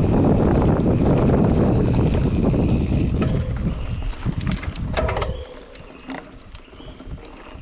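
Wind buffeting the microphone of a mountain bike's action camera at speed, dropping away sharply about five seconds in as the bike slows. Clicks and rattles from the bicycle run through it and are left on their own at the end.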